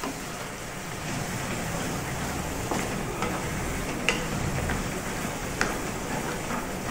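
Grated apple sizzling in ghee in a steel kadhai as a wooden spatula stirs it, the apple's juice frying off. A few sharp knocks of the spatula against the pan stand out.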